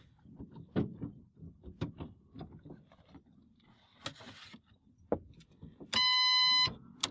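Light clicks and knocks as switches and gear are handled in a helicopter cockpit ahead of engine start. About six seconds in, a loud steady electronic beep sounds for under a second.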